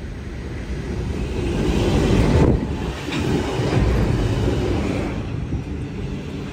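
A passenger train going by close at hand, its running and wheel noise building to a peak about two and a half seconds in, staying loud for a couple of seconds, then slowly easing off.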